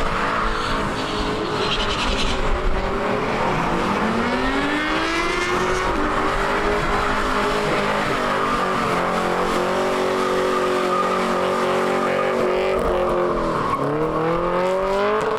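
A drag-racing car's engine revving up and held at high revs for several seconds, dropping briefly near the end and climbing again.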